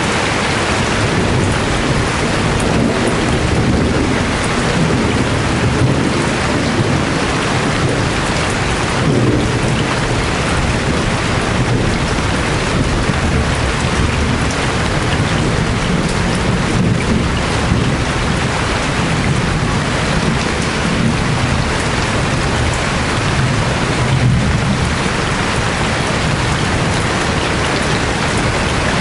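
Heavy tropical rain falling steadily and pattering on surfaces, with low rumbles of thunder rolling underneath on and off.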